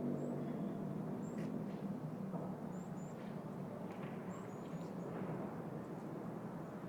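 City park ambience: a steady low hum of the surrounding city, with short high bird chirps scattered through it, several in quick succession around the middle.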